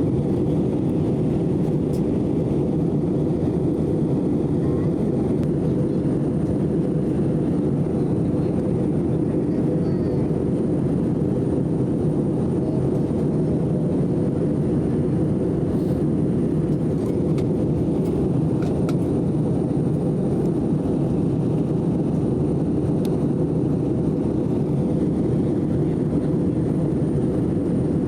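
Steady roar of engines and rushing air heard inside an airliner's cabin during the descent to landing, with a faint high whine and a few faint ticks past the middle.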